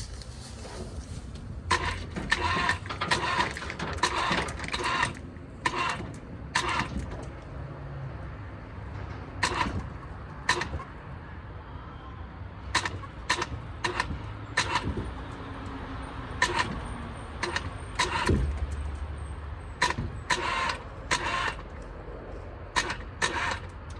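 Irregular metallic clicks and knocks from the rig lifting an LS 6.0 V8 engine off a pickup bed, over a low steady rumble, with a heavier low thump near the end.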